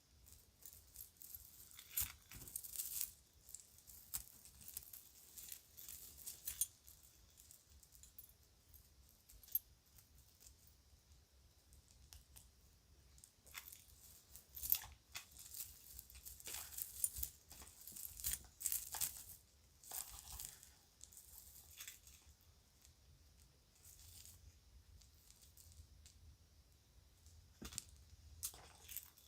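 Children's jewelry and packaging bags being handled: irregular small clicks and clinks mixed with crinkling and rustling, coming in clusters with short pauses.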